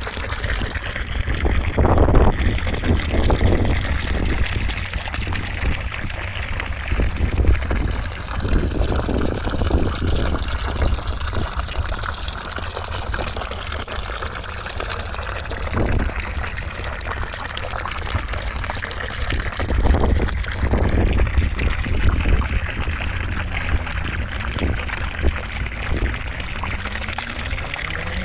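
Steady rushing water with a low rumble, heard as a continuous white-noise hiss that swells briefly now and then.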